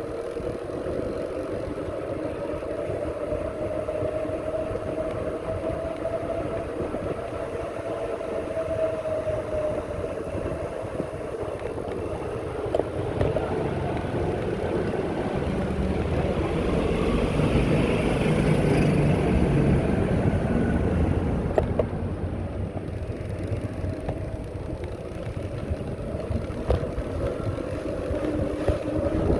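Riding noise from a moving bicycle: a continuous hum with a tone that drifts slowly in pitch, over rushing wind-like noise. The sound swells louder for several seconds about halfway through.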